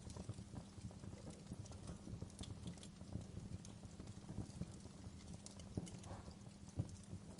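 Wood fire burning in a fireplace: a dense low crackle of logs with scattered sharp pops at irregular intervals, one louder pop near the end.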